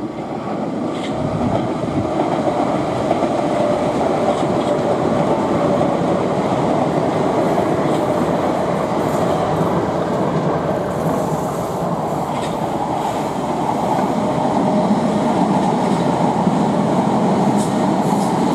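Passenger train running past on the line: a steady rumble of wheels on the rails with a steady hum running through it.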